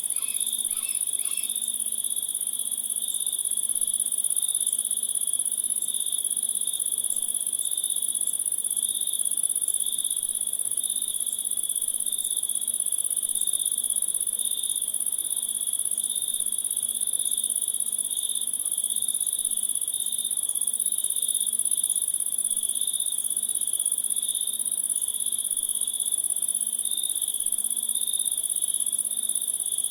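A dense, steady chorus of trilling insects, like crickets at night: a high continuous shrill over a second, lower pulsing trill. A few short chirps sound in the first second or two.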